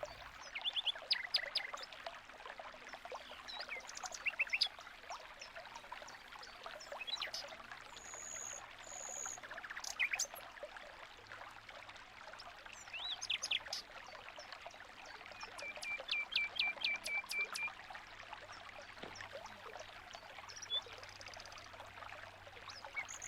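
Aviary finches chirping and calling: short, high chirps scattered throughout, with a quick run of repeated notes about sixteen seconds in. Underneath is a steady trickle of running water.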